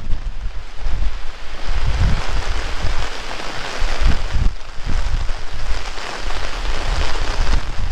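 Heavy rain falling hard and steadily, with irregular gusts of wind buffeting the microphone as low rumbles.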